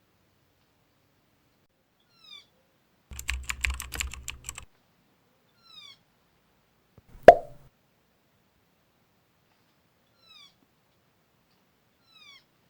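Faint, short, falling bird calls repeat several times, spaced a few seconds apart. About three seconds in comes a rapid burst of clicks over a low rumble lasting about a second and a half, and past the seven-second mark a single sharp, loud knock.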